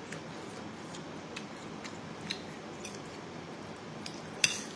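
A person chewing and smacking a mouthful of noodles, with faint small clicks. Near the end a metal spoon clinks sharply against the bowl.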